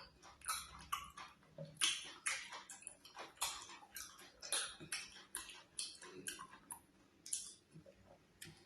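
Close-miked eating sounds: wet chewing and lip-smacking of fufu with slimy ogbono soup, a string of short, sharp, irregular smacks and clicks, roughly two a second.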